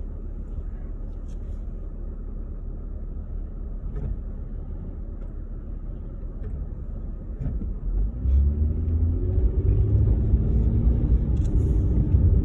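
Heard from inside a car: a low, steady engine rumble while waiting. About eight seconds in, it grows louder and the engine note rises as the car pulls away and accelerates.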